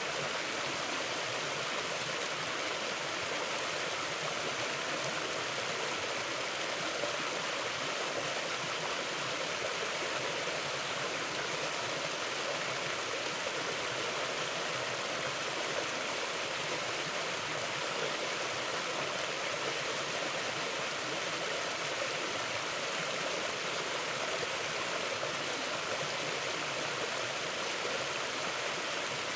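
Mountain river flowing, a steady rushing of water over rocks with no let-up.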